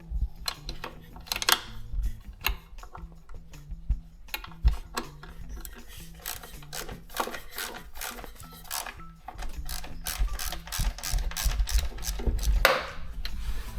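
Socket ratchet wrench clicking in quick runs as the bolts holding a throttle body are backed out, with clicks coming densest in the second half.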